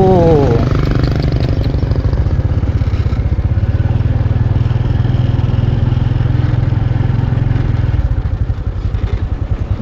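Small motorcycle engine running steadily while riding, with a rapid low pulsing; the engine note eases and dips about eight seconds in.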